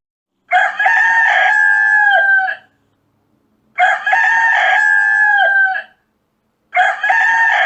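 Rooster crowing three times in a row, each crow a loud cock-a-doodle-doo of about two seconds that holds its pitch and drops at the end; the third crow begins about seven seconds in and runs on past the end.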